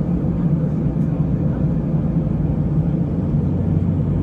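Steady low drone of an Airbus A320-214 heard inside the passenger cabin, its CFM56 engines running, with an even hum.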